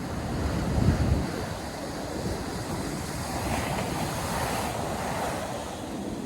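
Ocean surf breaking and washing ashore, with wind buffeting the microphone in a low rumble that gusts about a second in.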